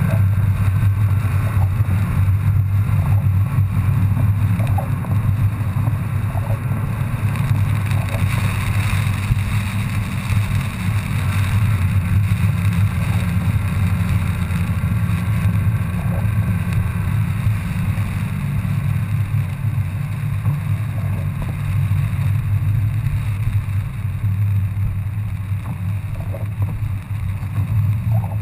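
BMW 135i's turbocharged straight-six heard from inside the cabin as a steady low drone at an even pace, with road noise from the wet track, easing slightly near the end.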